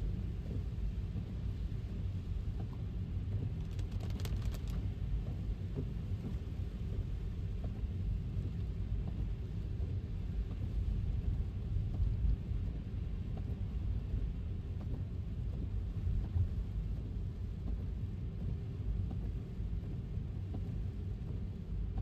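Tesla electric car driving on wet city streets in the rain: a steady low road rumble with a light hiss of rain, and a brief cluster of faint clicks about four seconds in.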